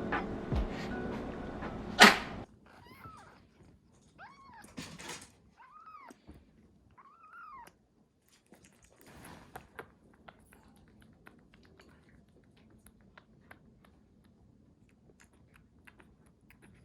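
Background music ends just after a sharp knock about two seconds in. A young kitten then mews four times, short high calls that rise and fall in pitch, followed by faint scattered clicks.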